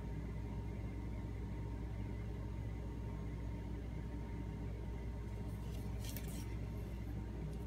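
Steady low background hum, like a fan or appliance running in a small room, with a brief faint scratchy rustle about six seconds in.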